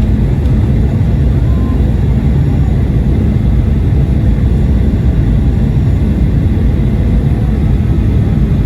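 Steady low rumble of an airliner's engines and rushing air, heard from inside the passenger cabin on the approach to landing.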